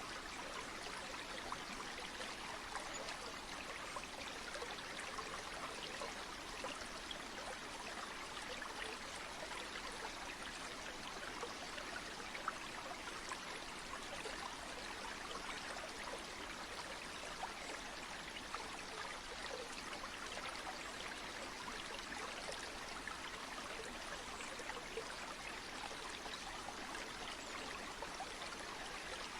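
Flowing stream water: a steady, even rush flecked with small splashes and trickles, unchanging throughout.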